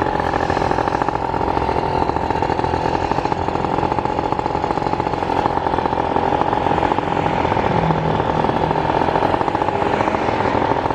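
Car engine running steadily while driving, heard from inside the cabin: a rapid buzzing pulse under a steady high-pitched hum.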